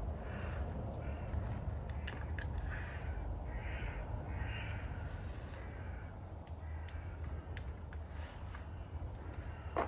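Serval giving several short raspy calls, with a steady low hum underneath.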